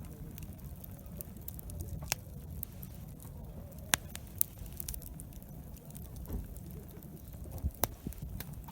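Wood campfire crackling, with scattered sharp pops: two loud ones about four seconds in and another near the end, over a low steady rumble.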